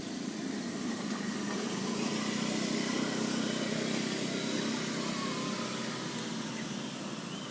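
A motor vehicle driving past, its engine and road noise swelling over the first few seconds and then slowly fading.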